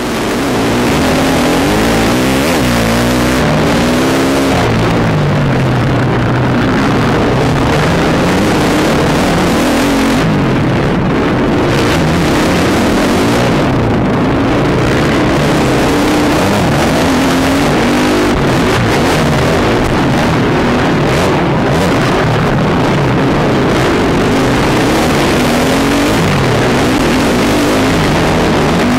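Motocross bike engine revving hard, its pitch climbing and dropping again and again as the throttle opens and closes, over a constant loud rushing noise.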